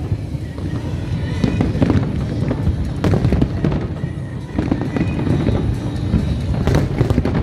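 Aerial fireworks display going off continuously: a dense run of booms and crackling bursts, with sharper bangs about three seconds in and again near the end.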